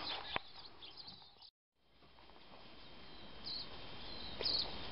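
Quiet woodland ambience with two short, high bird chirps about three and a half and four and a half seconds in. A single click comes just under half a second in, and the sound cuts out briefly at a cut before fading back up.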